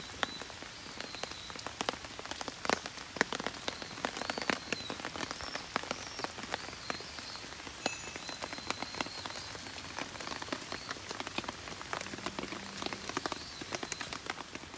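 Steady rain falling, with many sharp drops tapping on a tarp shelter overhead.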